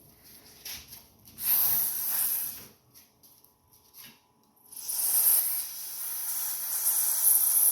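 Two bursts of hissing spray, a short one and then a longer one of about three seconds, from an aerosol can of carburetor cleaner sprayed into a small engine's carburetor.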